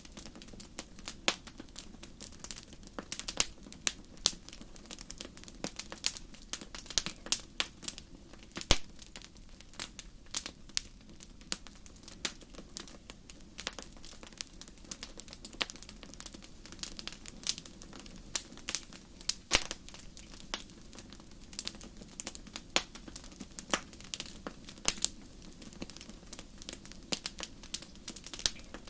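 Wood fire burning in a fireplace, crackling and popping: many sharp, irregular snaps over a soft steady low rush of the flames.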